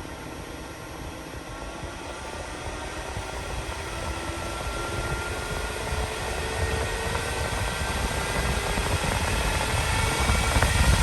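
RoadPro Tornado 12-volt clip fan running and speeding up: a rush of air with a motor whine that climbs steadily in pitch and loudness.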